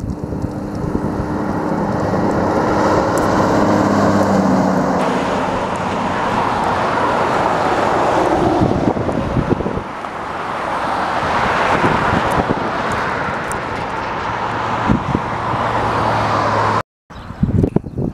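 Trucks passing on the road: engine hum and tyre noise swell up and die away several times, one pass after another. The sound cuts out for a moment near the end.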